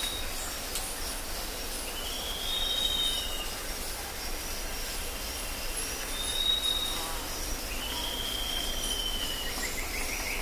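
Tropical rainforest ambience from South America: long, high whistled animal calls rise and hold, three or four times, over a bed of high insect chirping and a low rumble. A quick run of short pulsed calls comes in near the end.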